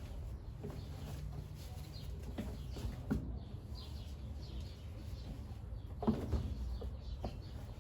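Brastemp Ative 11 kg top-loading washing machine running early in its bed-and-bath cycle: a steady low hum with occasional soft knocks. Faint bird chirps sound in the background.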